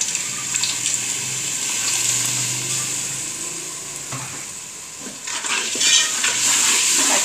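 Hot water poured into onion-and-spice masala frying in oil in an aluminium pressure cooker, which sizzles steadily. A steel ladle then stirs and scrapes the pot, and the sizzling grows louder about five seconds in.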